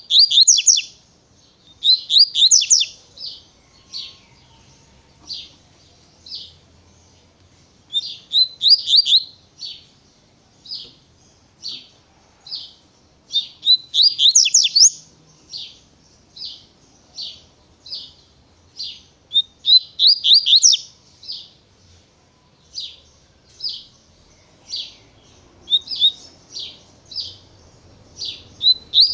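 Double-collared seedeater (coleiro) singing a fast 'tui tui' song. Quick clusters of sharp, high sweeping notes recur every few seconds, with single clipped notes about a second apart in between.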